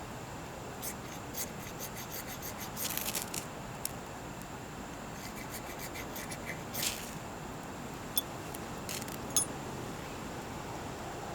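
Small objects being handled: scattered light clicks and brief scrapes, with a short rasping scrape about seven seconds in and two sharp ticks near the end, over a steady background hiss.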